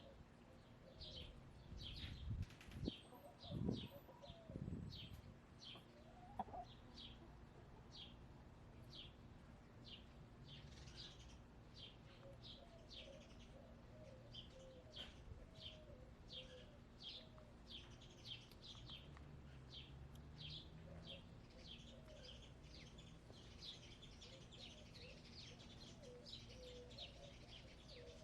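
Hens clucking softly and faintly, under a wild bird's high chirps repeated about once or twice a second. A few low rumbles come early on.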